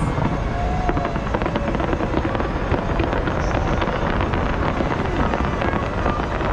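Fireworks display: a dense, continuous crackling over a steady low rumble.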